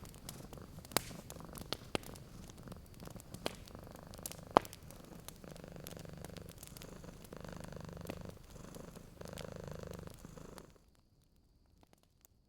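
A domestic cat purring in a steady rhythm of swells, one with each breath, over the sharp crackles and pops of a wood fire. The loudest pop comes about four and a half seconds in, and both sounds stop abruptly near the end.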